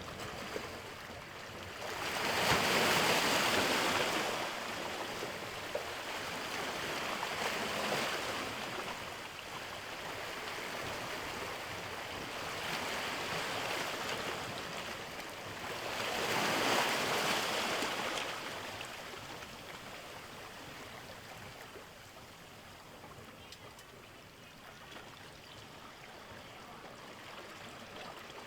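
Sea waves washing in: swells of rushing water, the biggest about two seconds in and again around sixteen seconds in, easing to a softer wash near the end.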